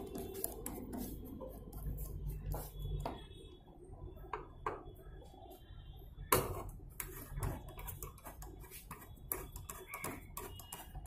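Irregular clicks and knocks of hand tools working on the screws of a washing machine's cabinet, with one sharp knock about six seconds in.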